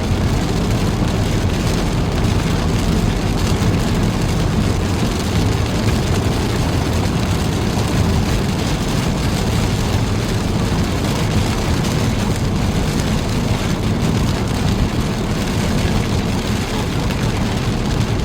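Steady road and engine noise inside a moving car's cabin: a constant low rumble with an even hiss over it and no distinct events.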